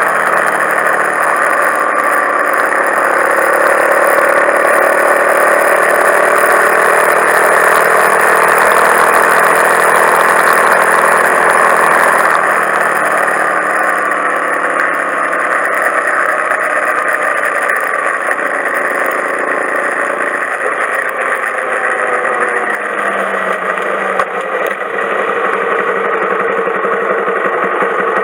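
Honda Monkey 125's single-cylinder four-stroke engine running through a full Akrapovič exhaust system, its pitch slowly rising and falling.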